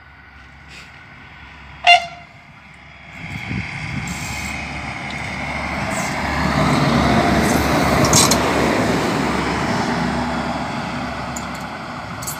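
A train approaching and passing by, its noise building from about three seconds in to a peak around eight seconds and then fading. A short horn toot sounds about two seconds in, before the noise builds.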